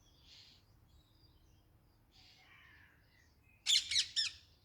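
Garden birdsong: faint scattered chirps, then about three and a half seconds in a bird gives a loud run of four quick notes, each sweeping downward in pitch.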